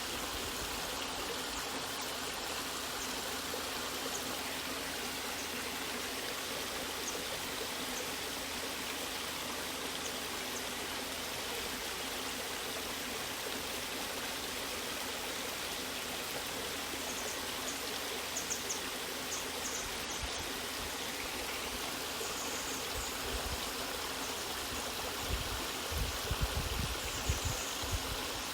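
Waterfall water rushing steadily, a constant even hiss. Several low thuds or rumbles break in over the last few seconds.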